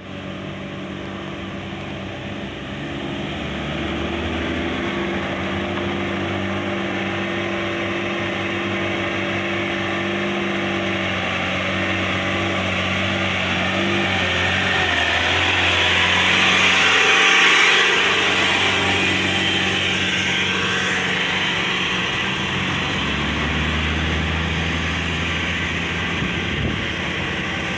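Loaded dump truck's diesel engine labouring up a steep climb, a steady engine note that shifts pitch several times and grows louder to a peak about two-thirds of the way in before easing.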